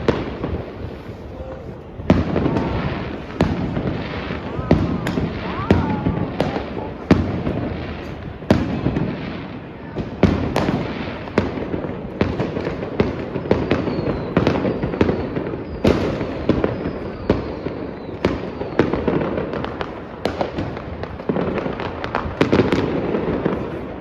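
New Year's Eve fireworks going off continuously: many sharp bangs and crackles, several a second at times, over a constant rumble of distant explosions, with a few rising whistles partway through.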